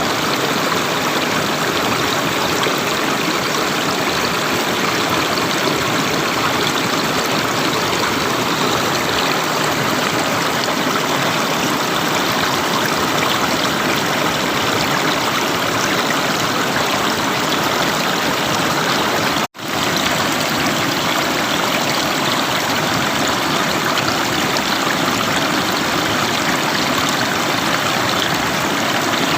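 River water flowing and rushing steadily. Near two-thirds of the way through, the sound cuts out for an instant and then resumes.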